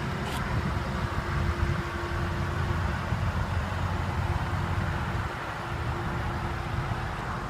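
Car engine idling steadily, a low rumble with a faint constant hum over it, and a short click just after the start.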